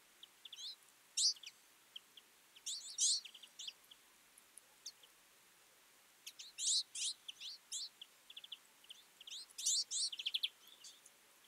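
Flock of twite calling: overlapping short, high twittering chirps and rapid trills, coming in bursts a few seconds apart.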